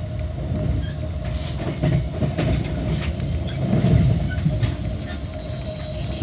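Metra commuter train in motion, heard from on board: a steady low rumble with irregular clicks and knocks of the wheels over the rails, and a steady hum.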